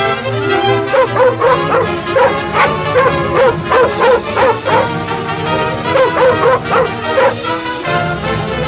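A dog yipping and whimpering in short, rapidly repeated cries over an orchestral film score.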